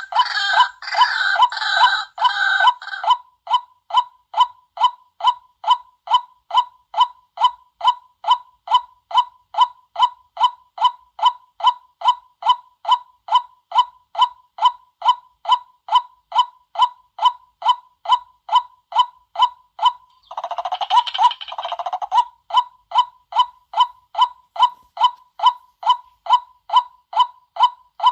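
White-breasted waterhen calls, as used in a lure-call recording: a monotonous run of 'kwak' notes, about two a second. A short burst of harsh, chattering calls ends about three seconds in, and another breaks in about twenty seconds in.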